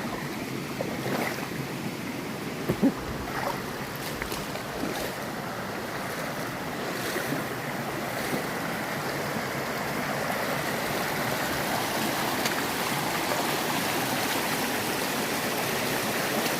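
Steady rush of a shallow mountain stream, with a few brief knocks or splashes in the first few seconds.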